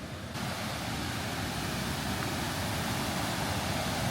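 River Tees water rushing over rocks, a steady even rush that steps up suddenly to a louder, fuller sound just after the start.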